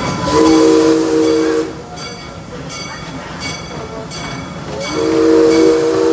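Steam locomotive's chime whistle blowing two long blasts, one just after the start and another near the end, each a chord of several tones. Between them the locomotive's bell rings steadily, about once every 0.7 seconds.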